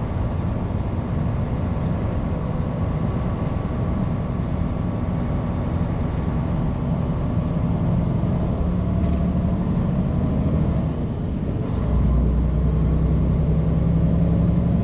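Freightliner Cascadia truck's diesel engine and road noise heard from inside the cab as it drives slowly, a steady hum. About twelve seconds in the engine's low hum grows louder.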